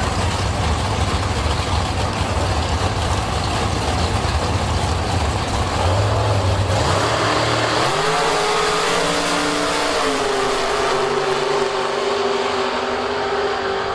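Drag-racing car engine running loud with a deep rumble. About seven seconds in, its pitch climbs and then holds as a steady high engine note.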